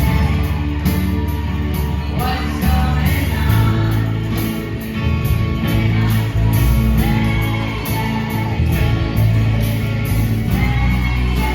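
A band playing with a singer, over a strong bass line and regular cymbal strokes.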